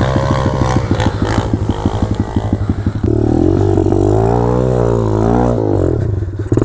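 Pit bike engine revving hard on a hill climb, its rapid firing pulses chattering at first, then the engine note rising and falling with the throttle for a few seconds past the midpoint.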